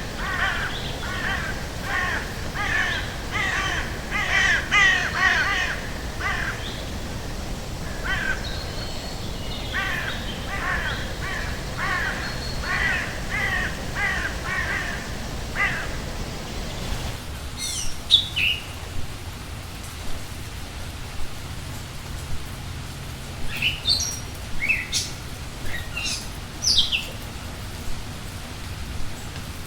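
Crows cawing in a rapid series of harsh calls, about two a second, for roughly the first half. The ambience then changes abruptly, and scattered short, sharp, falling bird chirps sound over a steady low background.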